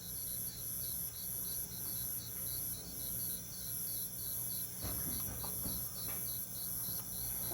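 Night insects, crickets among them, calling together: a high trill that pulses on and off somewhat under twice a second over a lower chirp repeating about four times a second, with a steady low hum underneath.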